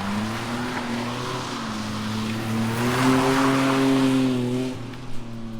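Drift car engine revving hard, its pitch rising and falling, with tyres squealing through a slide. It is loudest about three to four seconds in, then drops away sharply.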